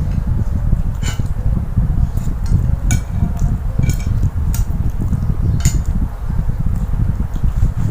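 Eating utensils clinking against a bowl of noodles, about five sharp clicks spread over several seconds, over a steady low rumble.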